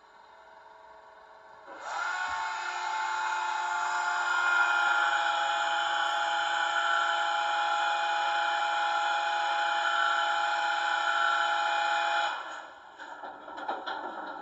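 Digital sound decoder of a Märklin 39200 H0 model of the DR class 120 'Taigatrommel' diesel locomotive, playing diesel engine sound through the model's small speaker. It comes in about two seconds in, runs steadily with several held tones, drops away about twelve seconds in, and gives way to a rougher, clattering sound near the end.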